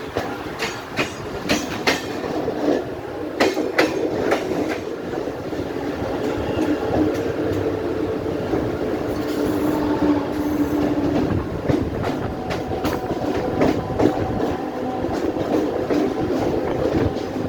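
Mumbai suburban local train running, its wheels clattering over the rail joints, with a steady hum and a series of sharp clacks.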